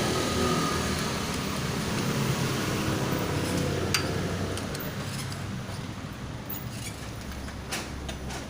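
A few light metallic clinks, as of tools or engine parts being handled, over a steady low background hum.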